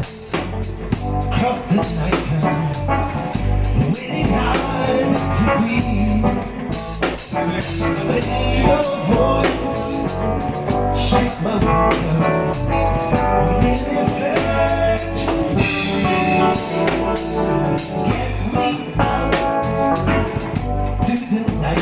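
A blues band playing a song, with drum kit and guitar.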